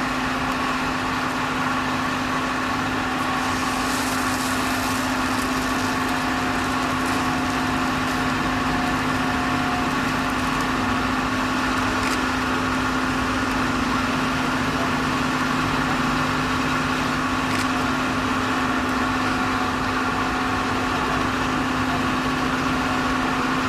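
Steady hum of electric machinery at an automatic train wash, with one strong low tone and fainter higher whines over a haze of noise, holding level throughout.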